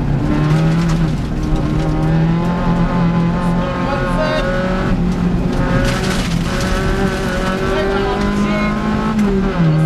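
Škoda Favorit 136L rally car's engine, heard from inside the cabin, running hard at high revs at stage speed over road and tyre noise, its pitch stepping with gear changes and dropping with an upshift near the end.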